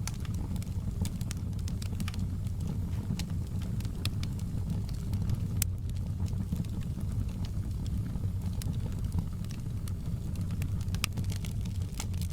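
Wood fire burning in a fireplace: a steady low rumble of the flames with frequent sharp crackles and pops scattered through it.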